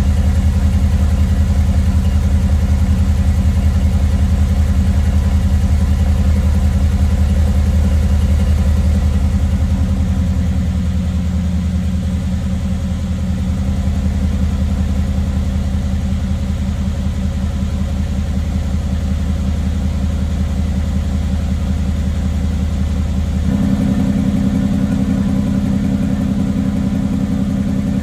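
Mercedes-AMG GT S 4.0-litre twin-turbo V8 idling after a cold start. Its idle shifts slightly about ten seconds in and changes tone abruptly about twenty-three seconds in.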